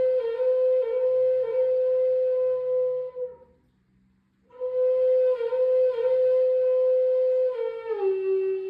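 Flute playing long held notes ornamented with quick dips in pitch. The phrase breaks off about three and a half seconds in for a pause of about a second, then resumes and steps down to a lower note near the end.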